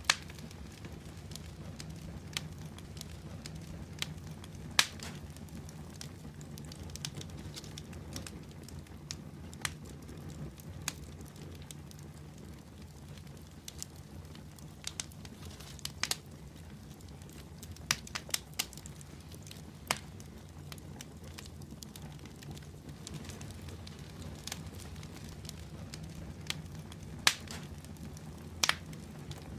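Wood fire burning in a fireplace: a steady low rush of flames with scattered sharp crackles and pops, irregular, about one every second or two.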